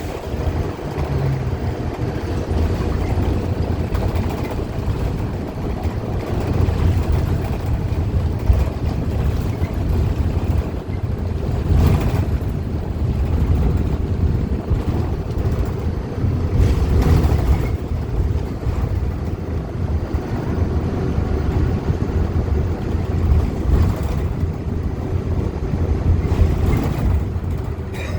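Steady ride noise inside a Gillig low-floor CNG transit bus under way: a continuous low rumble from the Cummins Westport ISL G engine drivetrain and the road. Brief clatters come twice, near the middle and a few seconds later.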